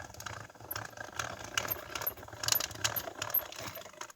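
Light, irregular metallic clicks and rattles of a thin metal cutting die and die-cutting machine plates being handled and set up.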